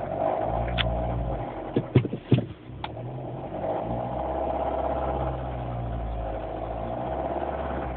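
Mini's engine running with a rattle just after a cold start. A quick cluster of sharp knocks comes about one to three seconds in.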